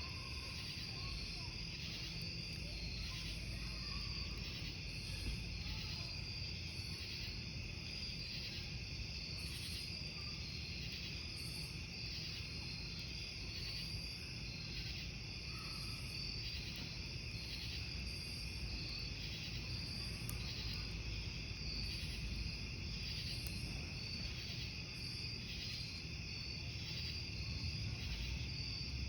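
A chorus of crickets chirping in steady, even pulses, over a low rumble from a wood campfire with an occasional faint crackle.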